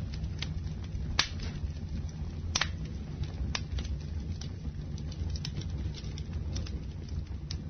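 Campfire burning: a steady low rumble with scattered sharp crackles and pops from the burning wood, the loudest about a second in and again a second and a half later.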